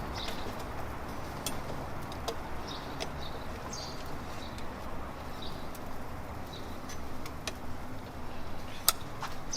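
Small birds chirping in short calls about once a second, over steady background noise with scattered sharp clicks.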